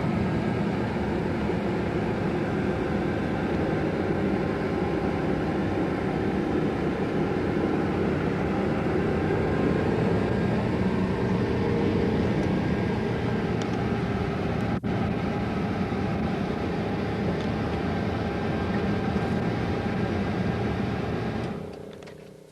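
Steady engine and road noise of a moving van, heard from inside the cabin; it fades away sharply near the end.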